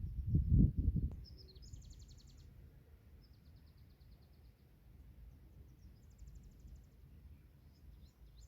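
Small songbirds singing in a forest: several rapid, high trills of quickly repeated notes, with a few short chirps near the end. A cluster of low, muffled thumps comes in the first second.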